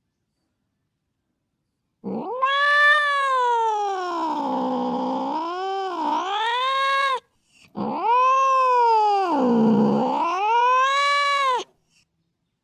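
Domestic cat yowling: two long drawn-out calls of about five and four seconds, each sliding down low in pitch and back up again.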